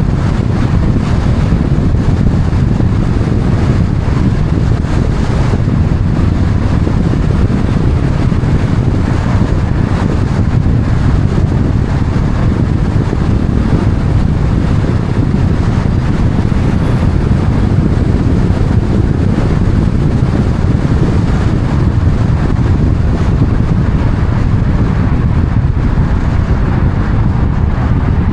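Steady low rumble of a moving vehicle with wind noise, unchanging throughout.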